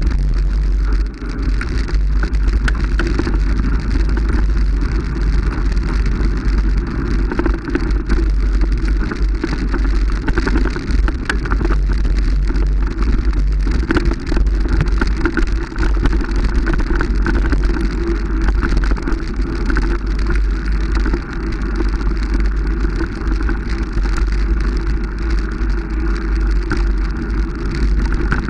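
Steady vehicle running noise with a heavy low rumble, like wind buffeting the microphone of a moving camera.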